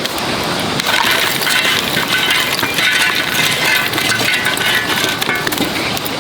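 Wood fire crackling, with many small sharp snaps.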